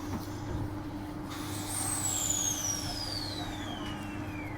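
Transperth A-series electric multiple unit riding along, a steady hum under a high electrical whine from the traction equipment that starts about a second and a half in and glides steadily down in pitch.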